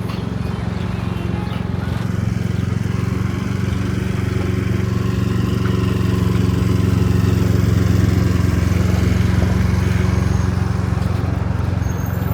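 A motor vehicle's engine running steadily with a low, even hum; it grows louder toward the middle and eases off a little near the end.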